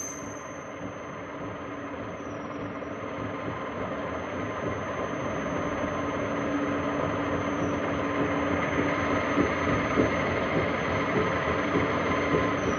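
Workshop machine tool running steadily: a continuous motor hum with several held tones, slowly getting louder.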